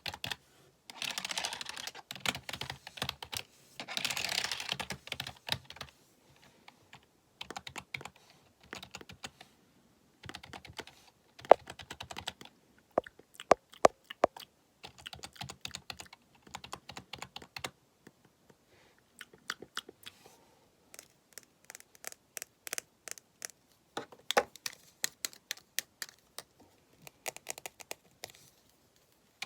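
Computer keyboard being typed on: quick clattering runs of keystrokes in the first few seconds, then slower, separate key taps with short pauses, a few of them sharper and louder around the middle.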